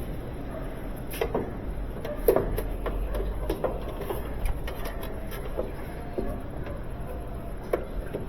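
Scattered light clicks and knocks of tools and screws being handled at the back of a GE dryer, about six of them spread irregularly, with the strongest a little over two seconds in.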